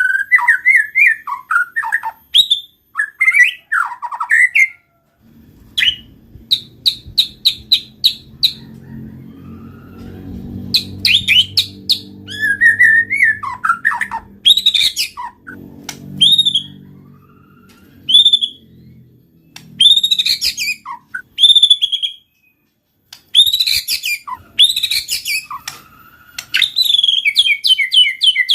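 White-rumped shama singing vigorously: loud, varied whistled phrases that glide up and down, broken by quick runs of rapid repeated notes. A faint low hum sits underneath through the middle stretch.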